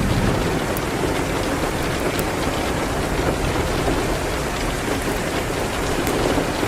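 Steady heavy rain with a low rumble underneath and a few faint ticks.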